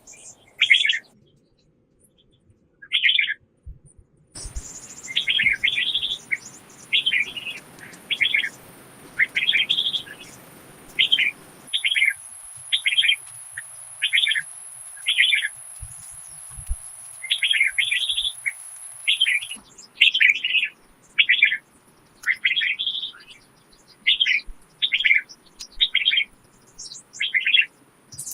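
A bird calling with short chirps repeated about once a second, over a faint outdoor hiss. A thin, steady, high-pitched tone runs behind it through the middle part.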